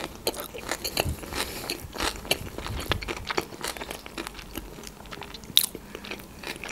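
A person chewing a mouthful of sushi roll, with irregular crunching and mouth clicks.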